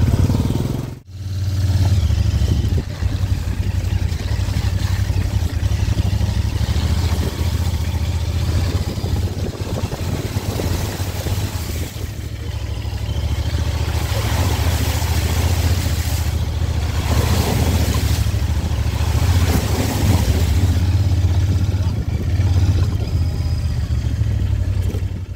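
Royal Enfield motorcycle engine running steadily with a low, even note, under a rushing noise of wind and tyres as the bike rides off-road.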